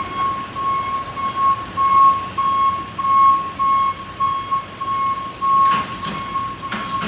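Fire engine's back-up alarm beeping steadily, about two beeps a second, as the rig reverses. Two short hisses come near the end.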